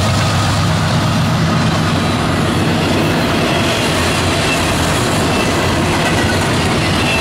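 CSX double-stack container train passing at speed. The trailing diesel locomotive's low engine hum gives way to the steady clatter of the well cars' wheels over the rail joints.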